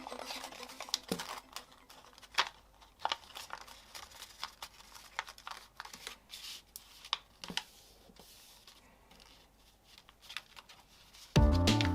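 A sheet of paper being handled and folded by hand, with scattered crinkles and soft taps as creases are pressed. Background music cuts in near the end.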